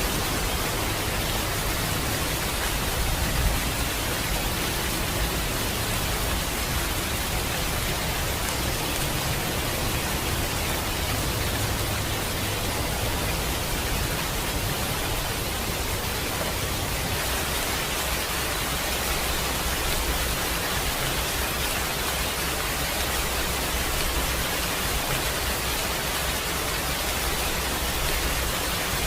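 Steady, heavy rain: a dense, even hiss with a low rumble underneath and one slightly louder patter about three and a half seconds in.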